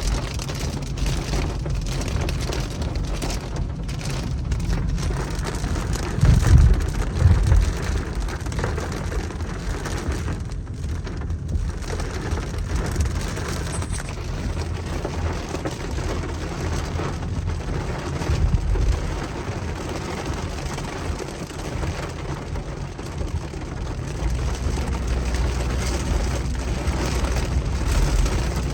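Steady rain falling, over a continuous low rumble, with a couple of louder low surges about six to seven seconds in.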